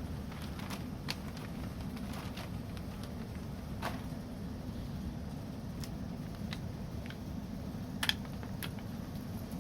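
Wood campfire crackling: irregular sharp pops and snaps, one every second or so, the loudest about 8 s in, over a steady low rumble.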